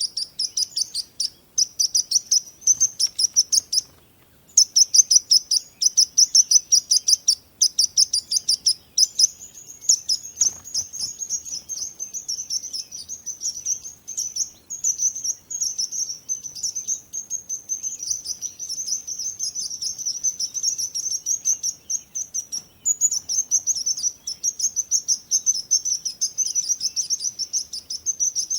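Small birds chirping in rapid, high-pitched runs, many chirps a second. The chirping comes in short spells with brief gaps at first, then runs almost without a break from about a third of the way in.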